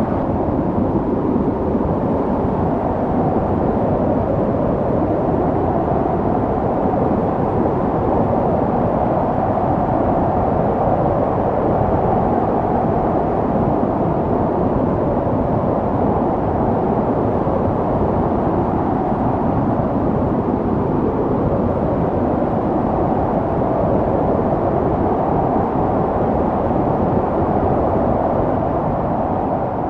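Snowstorm wind blowing steadily: a deep, even rushing noise that swells a little now and then.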